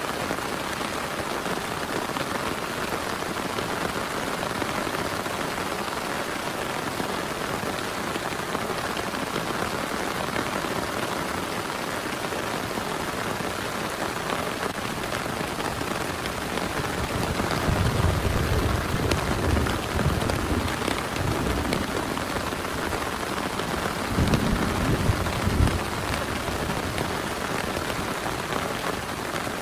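Heavy rain falling steadily, with a low rumble a little past the middle and another near the end.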